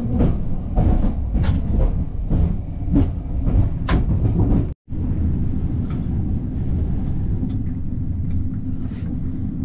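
Passenger train running, heard inside a sleeper carriage: a steady low rumble with scattered clicks and rattles. The sound drops out for a moment a little under five seconds in, then the rumble carries on, steadier and with fewer clicks.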